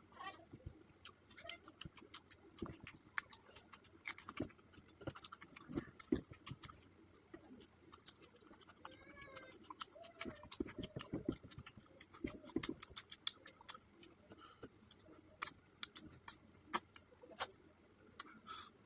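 Mouth sounds of someone eating rice and fish curry: a stream of short wet clicks and smacks from chewing, a few louder ones near the end. Doves coo in the background about halfway through, over a faint steady high-pitched note.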